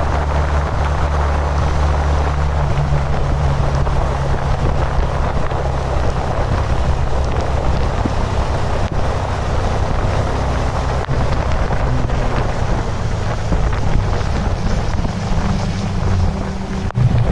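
An engine running steadily under heavy wind rush on the microphone. The engine's low note shifts a little near the end.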